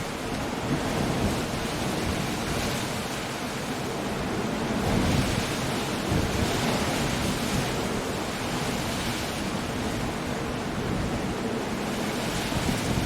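Coastal storm: waves breaking against rocks with wind and rain, a continuous wash of noise. It swells about five seconds in and again a little later.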